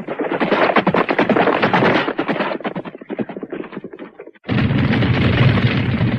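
Cartoon sound effect of rapid machine-gun fire, dense at first and then thinning out. About four and a half seconds in it cuts off suddenly, and a steady low rumble takes over.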